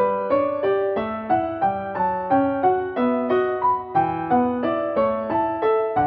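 Background music: a solo piano waltz, single notes struck in a steady flowing rhythm, about three a second, each fading before the next.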